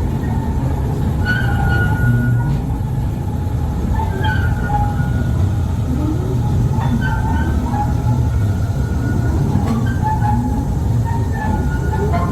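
Mail Rail narrow-gauge passenger train running through the tunnels: a steady low rumble from wheels on rails, with short high wheel squeals every few seconds.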